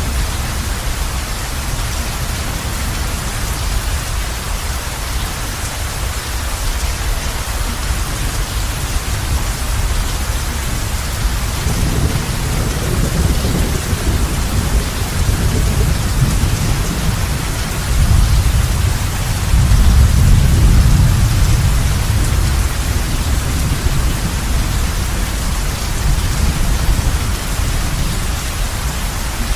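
Heavy rain on a roof, a steady dense hiss, with rolling thunder rumbling in about halfway through and swelling loudest about two-thirds of the way in.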